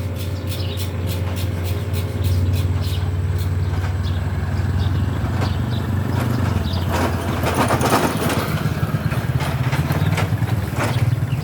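A small engine running steadily, with a louder burst of noise about seven to eight seconds in.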